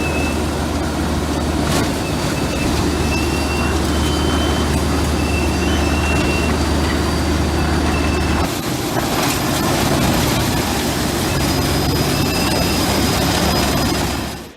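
Heavy machinery running: a loud, steady mechanical din over a deep hum. About eight and a half seconds in, the hum stops and the din goes on without it.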